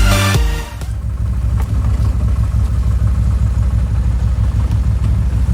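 Intro music cuts off about half a second in, then an engine idles steadily with a low, even pulse.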